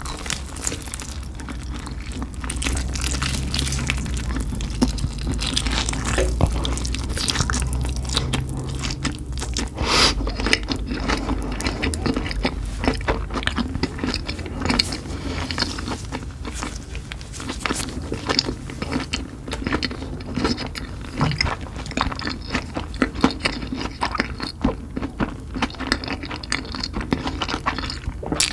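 A person eating spicy chicken close to the microphone: biting and chewing, with crunches and many small irregular mouth clicks that continue throughout.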